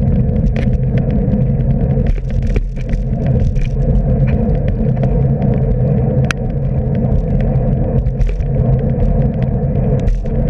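Steady rumble of wind and road noise while riding a bicycle on a wet commute, with frequent small clicks and rattles from the bike over bumps.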